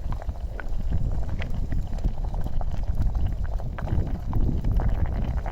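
Wind buffeting the microphone as a low, fluttering rumble, over a small wood campfire crackling with scattered sharp pops.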